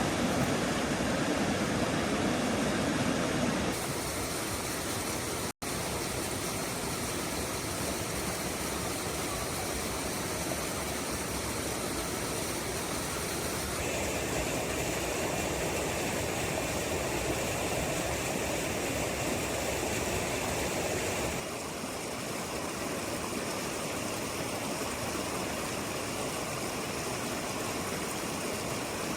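Heavy rain falling steadily, an even rushing noise that changes tone abruptly a few times, with a momentary dropout about five and a half seconds in.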